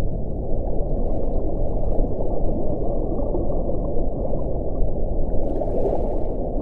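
Wind blowing steadily: a dense, low rushing noise, with a faint higher hiss rising briefly near the end.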